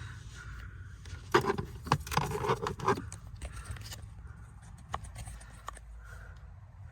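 Scraping and clicking of hands and a tool working a fastener on a stud in a cramped spot, with a louder cluster of knocks and rustling about one to three seconds in.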